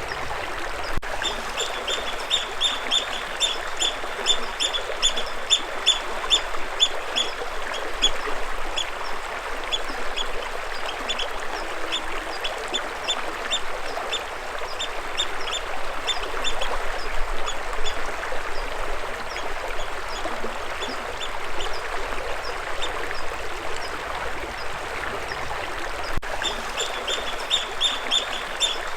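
Flowing stream water with a bird chirping over it in fast runs of short, high, repeated notes, several a second. The runs are densest near the start and again near the end, and sparser in the middle.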